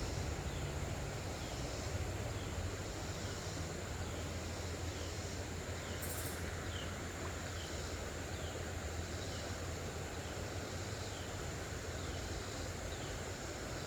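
Outdoor creekside ambience: a steady high insect drone, with a short falling chirp repeating about twice a second, over a low steady rumble. A brief hiss comes about six seconds in.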